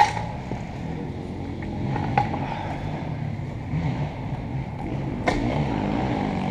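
Two-stroke dirt bike engine, a Beta 300RX, running steadily at low revs. A few sharp knocks cut through it, the loudest right at the start and about two seconds in.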